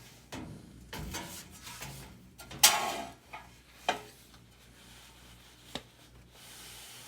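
Old pleated furnace filter being pulled out of its housing: scraping and rustling with a few sharp knocks and clicks, the loudest about two and a half seconds in.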